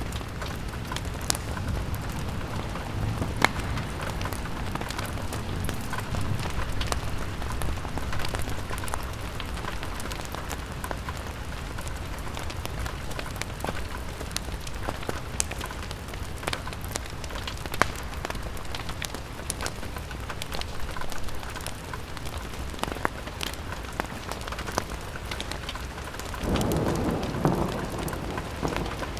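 Rain-on-window and fireplace ambience: a steady hiss of rain over a low rumble, dotted with sharp clicks and pops. Near the end a louder deep rumble swells up.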